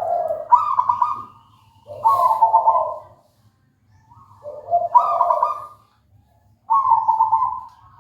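Zebra dove (perkutut) cooing: a rolling, trilled coo phrase roughly every two and a half seconds, most of them stepping from a lower note up to a higher one.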